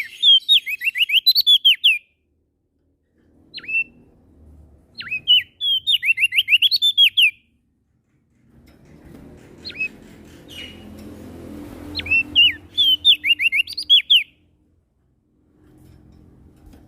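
A songbird singing three quick phrases of short, down-slurred whistled notes, with pauses between them.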